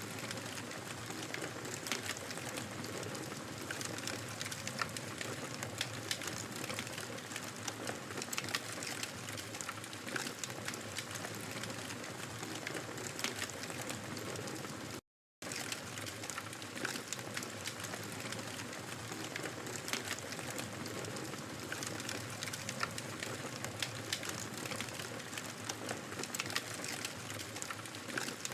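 Wood fire crackling in a fireplace: a steady hiss with frequent sharp pops and snaps. The sound cuts out completely for a split second about halfway through.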